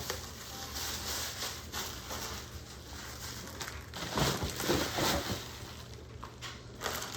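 Irregular rustling of packaging and light knocks of items being handled and moved aside, with a click at the start and a louder stretch of handling about four to five seconds in.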